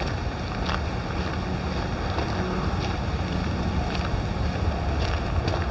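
Wind buffeting the microphone, a steady low rumble with a few faint clicks.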